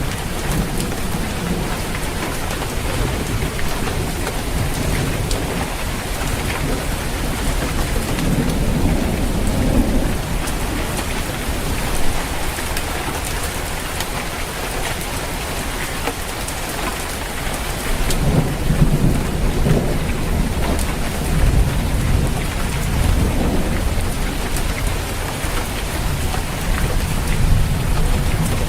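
Steady rain falling on a roof, with thunder rumbling low in the background and swelling twice, about a third of the way in and again past the middle.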